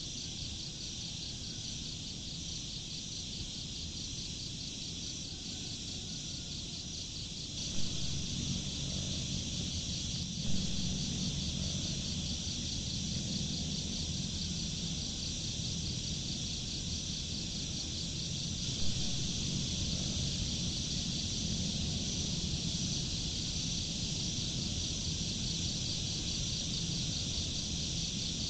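A steady high-pitched insect chorus, finely pulsing, like night crickets. Beneath it is a low rushing noise that grows louder about a quarter of the way in, with three short knocks scattered through.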